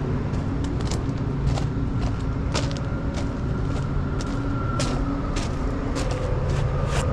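Hino rollback tow truck's diesel engine idling steadily, with scattered sharp clicks over the drone.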